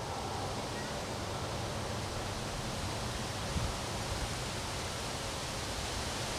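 Wind blowing steadily in a windstorm: an even rushing noise with a low rumble underneath.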